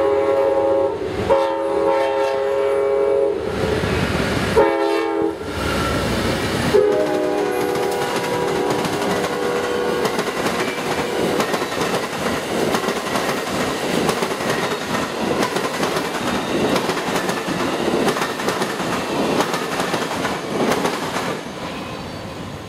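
Amtrak passenger train's locomotive horn sounding a series of blasts (long, long, short, long), the grade-crossing signal, as the train comes through. The horn gives way to the steady rumble and wheel clatter of the silver passenger cars passing, which fades near the end.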